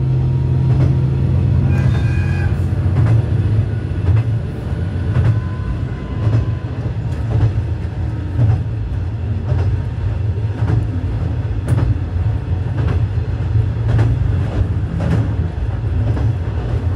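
Diesel railcar running along the track, heard from inside the car: a steady low engine drone, with the wheels clicking over rail joints every second or so.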